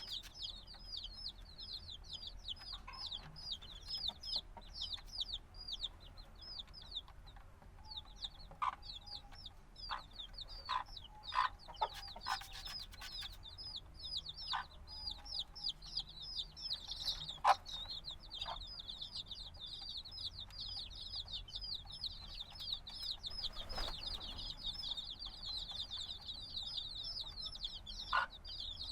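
A brood of chicks a few days old peeping nonstop, many high-pitched chirps a second, each dropping in pitch. A few light taps or knocks sound among the chirps.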